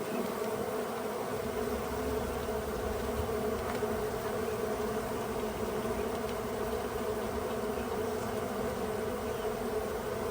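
Exposed honeybee colony buzzing with a steady, unbroken drone.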